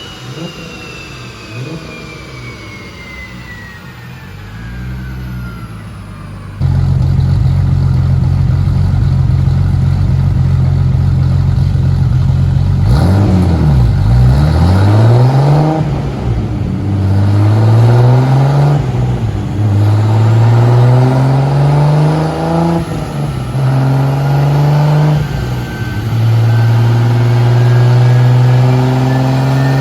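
Turbocharged Toyota Supra inline-six running hard on a dyno. The first few seconds are quieter, with a falling whine. Then the engine note jumps up suddenly and holds at a steady pitch, and from about halfway the revs repeatedly drop and climb before holding high again near the end.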